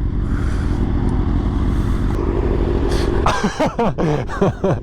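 Motorcycle engine running steadily while riding. Near the end it gives a quick series of revs that rise and fall sharply in pitch.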